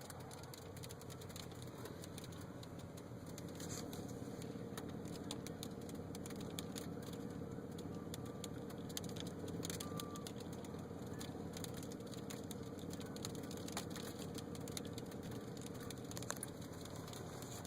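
Hail falling: scattered sharp clicks of hailstones striking at irregular moments over a steady low rumble.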